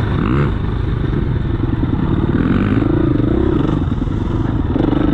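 Enduro dirt bike engine running, its pitch rising and falling with the throttle, with a quick rev near the start.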